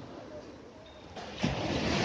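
Sea surf with wind buffeting the microphone: low wash for about a second, then a wave breaks and the rush of water swells up loudly about one and a half seconds in.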